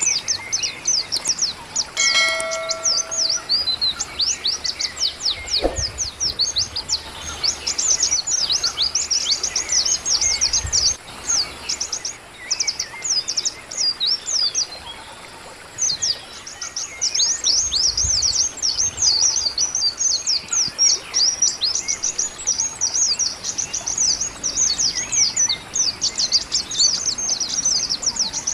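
Many small birds chirping rapidly in quick, high-pitched, downward-sweeping chips. The chirping pauses briefly about halfway through. A short steady tone sounds once about two seconds in.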